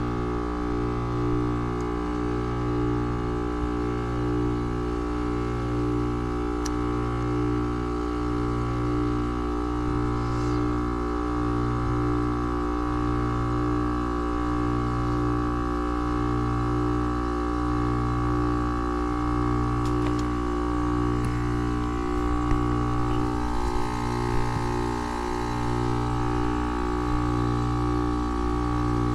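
Rheem heat pump outdoor unit running in defrost mode: a steady electrical hum from the compressor, its low drone wavering about once a second. The unit is reversing to melt heavy ice from its iced-over coil. A soft hiss rises for a few seconds near the end.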